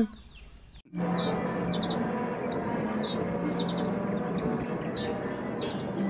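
Small bird chirping repeatedly, short high calls about twice a second, over a steady background rush that cuts in abruptly about a second in.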